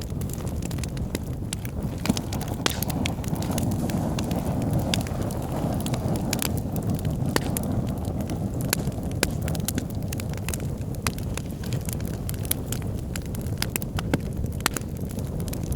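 Wood fire burning in a fireplace: a steady low rush of flames with frequent sharp, irregular crackles and pops from the logs.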